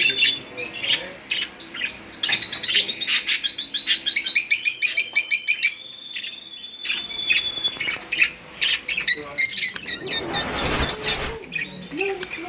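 Budgerigars chirping in rapid runs of high notes, densest from about two to six seconds in and again around nine seconds in. A rustling noise lasting about a second comes about ten seconds in.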